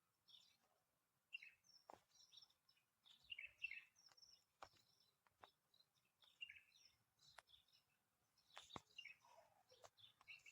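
Faint bird chirps, short and scattered, with several sharp clicks in between.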